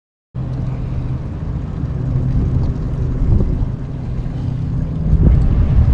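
A motor running steadily with a low hum over a noisy rumble, cutting in abruptly just after the start.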